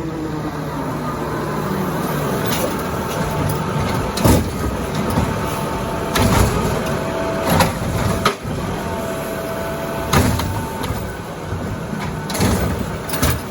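Diesel Autocar ACX garbage truck with a Bridgeport Ranger body running, with several loud metal clanks and bangs at irregular intervals over the engine sound.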